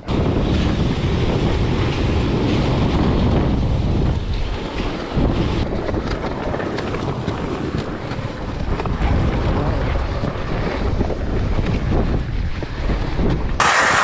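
Strong gale-force wind buffeting the microphone, a loud, dense, steady rumble. Near the end it cuts abruptly to a brighter, hissier sound.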